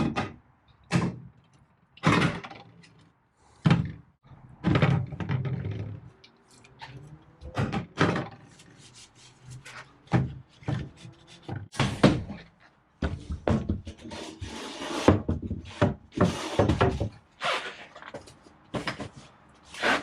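Irregular knocks, thunks and clatters of doors or cupboards being opened and shut and things being handled in a small enclosed space.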